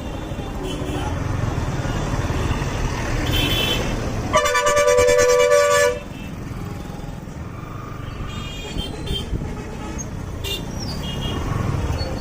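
Vehicle horn honking in road traffic: one loud, steady blast about four seconds in, lasting about a second and a half, with several shorter, fainter toots over a steady low rumble of engines and road noise.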